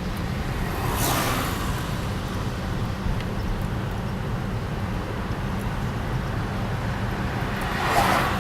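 Road noise from a moving car: a steady low rumble, with two vehicles swishing past, about a second in and again near the end.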